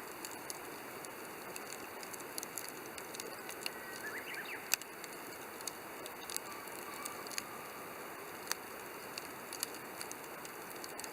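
Wood campfire in a Coleman Fire Disc crackling: a steady hiss with irregular sharp pops, the loudest about five seconds in and another near eight and a half seconds.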